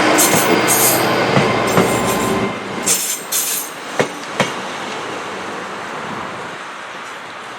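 A train running along the rails, loud at first with rumbling wheel noise and brief high squeals. It then fades away, with two sharp clacks about four seconds in.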